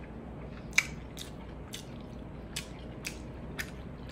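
Close-miked wet chewing of soft raw-fish kinilaw and rice: a string of about six sharp mouth clicks and lip smacks, the loudest about a second in.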